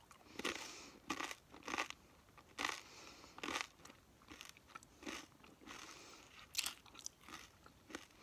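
Crunchy food being bitten and chewed up close to the microphone: irregular crisp crunches, about one a second.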